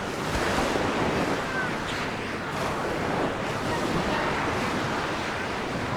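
Sea surf: waves washing onto the beach in a steady rush that swells and eases.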